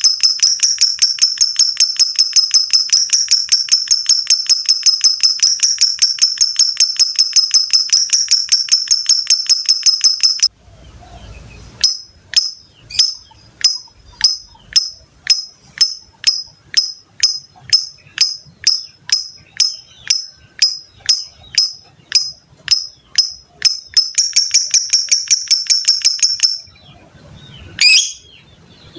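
Lovebird's 'ngekek' song: a long, very fast, high-pitched chattering trill for about ten seconds. After a short break it slows to sharp chirps about two a second, speeds up into another brief fast trill, and ends with two single squawks near the end.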